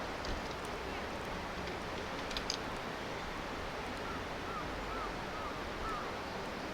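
Steady rush of river water, with a few sharp pops from a wood campfire. About four seconds in, a faint bird gives four or five short chirps.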